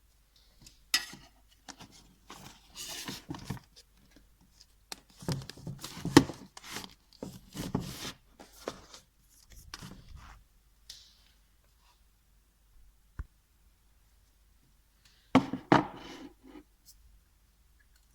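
Scattered handling sounds of objects being moved and set down: taps, knocks and rustling, with the sharpest knock about six seconds in and another short cluster of knocks near the end.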